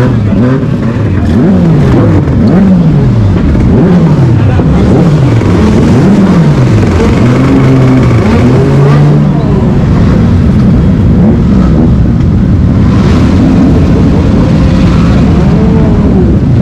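Motorcycle engines revved over and over, the pitch rising and falling about once a second, then held steady for a moment about nine seconds in, with engines running loudly and a few more revs near the end.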